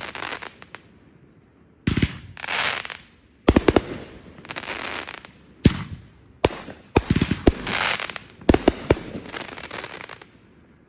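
Fireworks going off in a rapid string of sharp bangs, each followed by a crackling hiss, some coming in quick doubles or clusters, with the last one about a second before the end.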